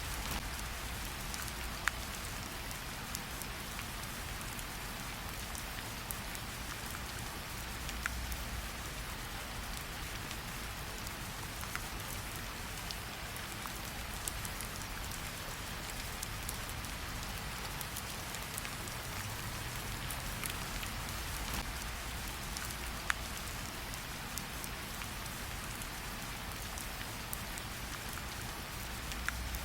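Steady rain falling, a constant even hiss, with a few sharp pops scattered through it, like the crackle of a campfire.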